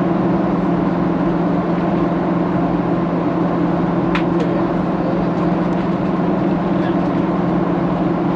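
Steady cabin drone of a Boeing 737-800 in flight: CFM56 turbofan engines and airflow making an even, unchanging hum. One faint click about four seconds in.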